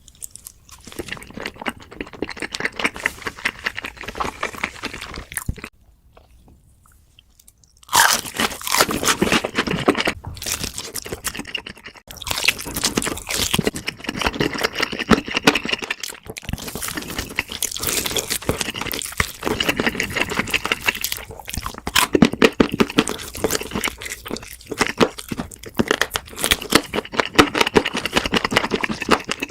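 Close-miked eating: dense crunching and chewing of crispy food. It drops to a brief lull of about two seconds some six seconds in, then resumes louder and keeps on continuously.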